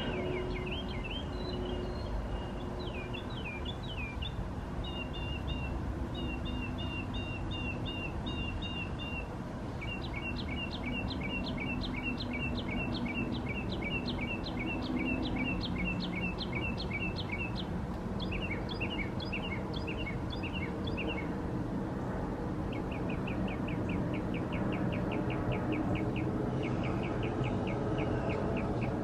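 Small songbirds chirping in long runs of quick, evenly repeated high notes and fast trills, with short pauses between runs, over a steady low rumble of background noise.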